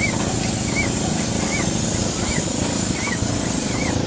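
1912 Case steam traction engine running idle with no load: a steady low rumble, with a short rising-and-falling squeak repeating evenly about every three-quarters of a second.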